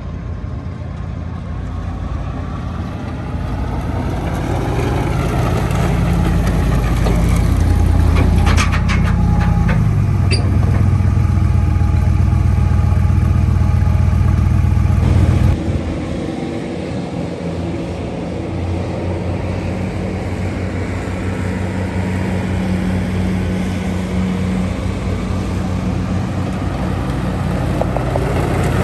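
A heavy engine running steadily and building in level over the first several seconds, with a few sharp clicks near the middle; the sound drops off abruptly about halfway through, then runs on more quietly.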